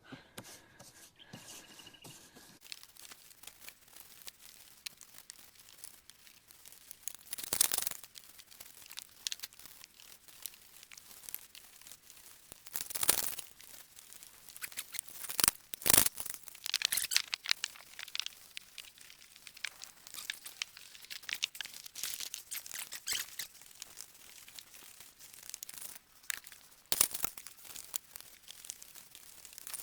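Paintbrush strokes working roof sealer onto a bus roof: irregular scratchy swishes and scrapes, with several louder strokes spread through.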